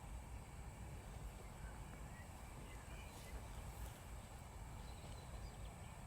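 Faint outdoor ambience: a low rumble with a few faint high chirps.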